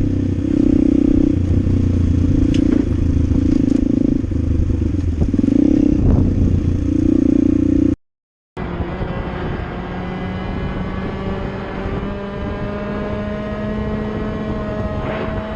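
Motorcycle riding sounds: first a low rumble that swells and fades about once a second. Then, after a sudden cut, a motorcycle engine pulls steadily, its pitch rising slowly as it accelerates.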